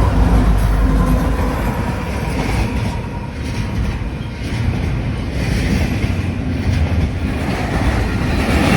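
A train running past on the rails: a loud steady rumble of wheels and cars on the track, easing a little midway and then building again.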